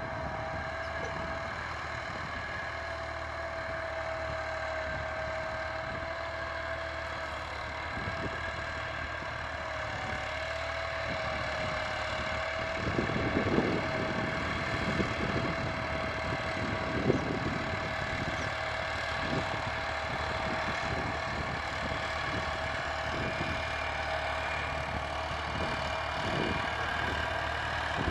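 Tractor engine running steadily at idle, with a steady whine over the drone and scattered knocks from about halfway in.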